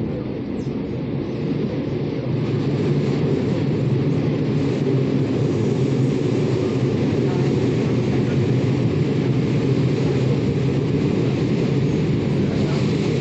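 Steady running noise inside a Taiwan Railways local electric multiple-unit train: the low rumble of wheels and traction motors, growing a little louder over the first few seconds, then holding steady.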